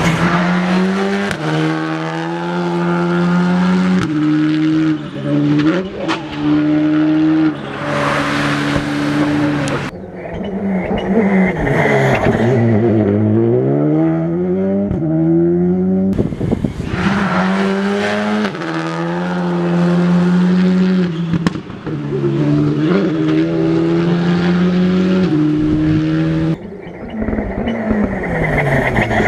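Rally cars running hard on a stage: engines held at high revs with quick gear changes. About ten seconds in, the revs drop away and then climb steeply again as a car lifts off for a corner and accelerates out, and the same happens near the end. A rushing noise, which may be tyres, is heard about eight seconds in.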